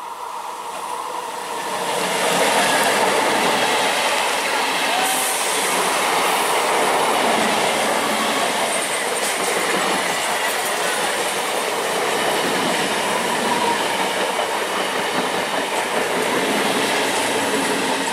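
Electric multiple-unit local train passing close by, its wheels running over the rails in a loud, dense rumble and clatter. The noise swells as the train arrives about two seconds in and stays loud while the coaches go by.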